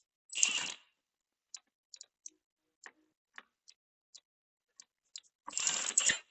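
Scattered light clicks and taps of small metal parts being handled, with a short noisy rustle about half a second in and a longer one near the end.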